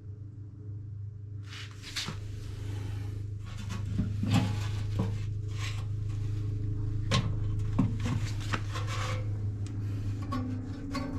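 Scrubbing and wiping the oily outside of a furnace blower motor's casing: irregular rubbing with scattered clicks and knocks as the motor is handled, starting about a second and a half in, over a steady low hum.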